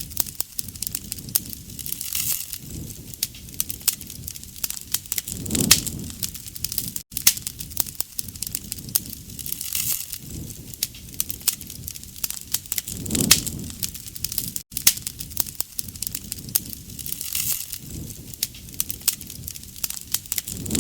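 Wood bonfire crackling and popping steadily, with a soft low rush of flame every few seconds.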